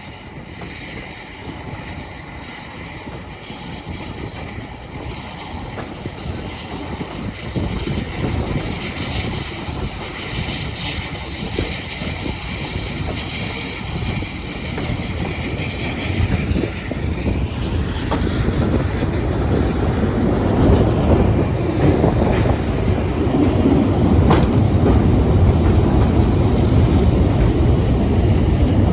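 A train running on the rails, with a rumble of wheels and motion that grows steadily louder.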